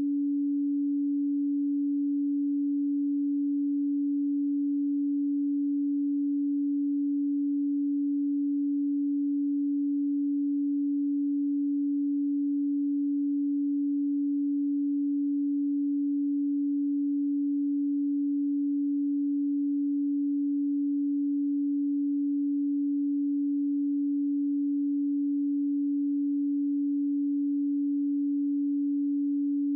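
A pure sine tone at 285 Hz, held at one steady pitch and level, with no other sound.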